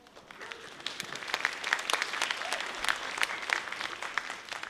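Audience applauding, swelling over the first second and dying down near the end.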